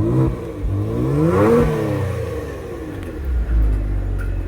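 Kia Stinger GT2's twin-turbo V6 exhaust revved once from idle. The pitch rises to a peak about a second and a half in, then falls back to a steady idle.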